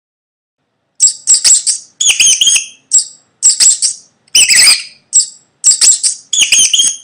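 Mouse squeaking: about nine quick bursts of shrill, high-pitched squeaks in a row, starting about a second in.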